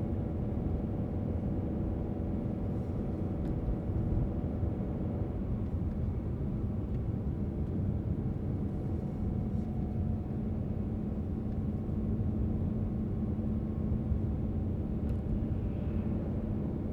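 Car driving at steady speed: a continuous low rumble of tyres and road with a faint steady engine hum.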